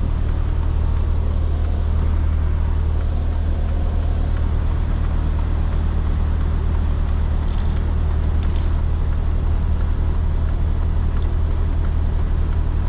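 HGV lorry's diesel engine idling steadily while stationary, a low even drone heard from inside the cab.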